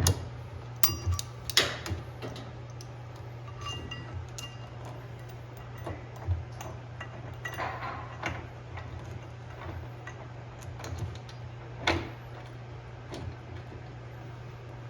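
Scattered clicks, taps and light metallic clinks of tools and parts being handled while a washing machine is put back together, over a steady low hum. One sharper knock comes near the end.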